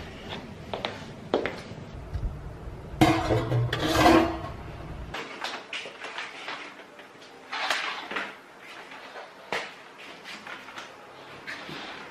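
Household handling sounds: scattered clicks and knocks, with a louder stretch of rustling and clattering about three to four seconds in.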